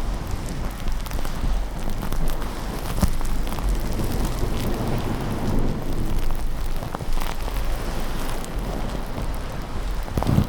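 Steady rain with a low, rolling thunder rumble underneath, and scattered small ticks.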